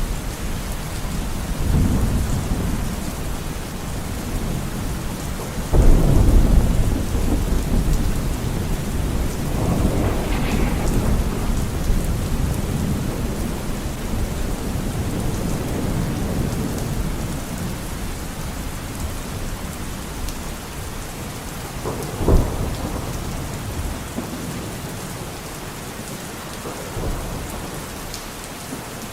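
Steady rain falling through a thunderstorm, with several rolls of low thunder. The loudest rumble comes about six seconds in, and a shorter, sharper clap about three-quarters of the way through.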